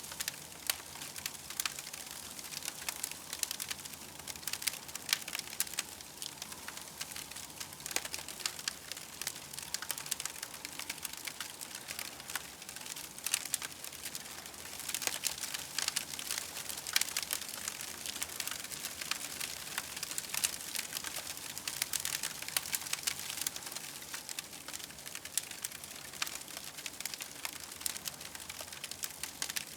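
Campfire crackling: many small irregular pops and snaps over a steady soft hiss.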